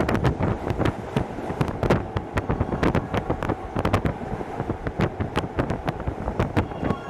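Hokuso Railway 7260 series train running, heard from inside the car: a steady rumble with many sharp, irregular clicks and knocks from wheels and track, several a second. A louder rush eases off just as it begins, and a faint whine comes in near the end.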